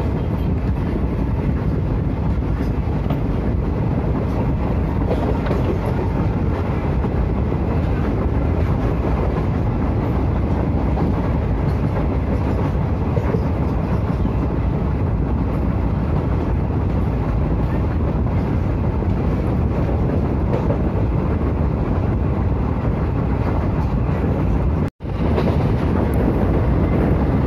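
Indian Railways express train running on the rails, a steady rumble of wheels and track noise heard from on board. The sound cuts out for an instant a couple of seconds before the end.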